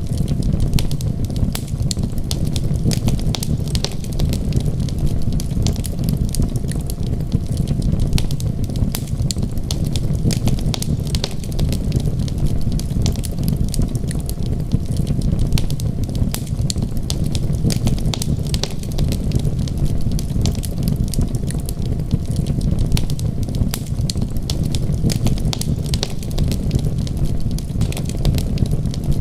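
Wood fire crackling, with frequent small sharp pops scattered over a steady low rumble.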